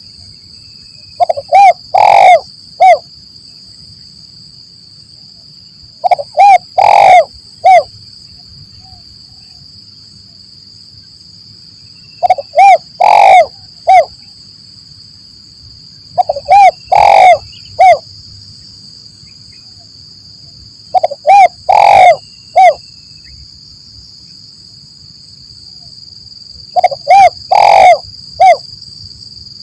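Spotted dove (tekukur) singing its cooing song: six short phrases, one about every four to five seconds, each a couple of brief coos, one longer loud coo and a short closing note. This is the 'kuk 1 mersik' style of song used to lure wild doves into answering. A steady high insect whine runs underneath.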